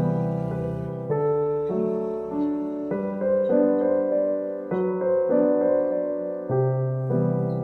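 Background piano music: a slow, gentle piano piece with sustained chords changing about once a second.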